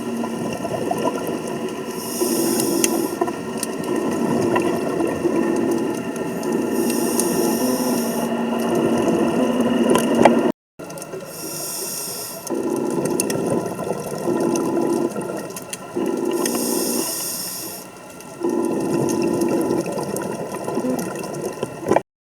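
Scuba diver breathing through a regulator underwater: hissing inhalations and rumbling bursts of exhaled bubbles in a slow cycle every four to five seconds, over a steady mechanical drone carried through the water.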